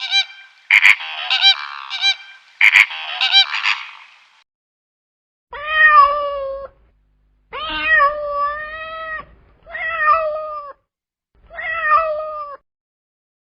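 A cat meowing four times in clear, drawn-out meows. Before them comes a dense stretch of high-pitched calls broken by a couple of sharp clicks.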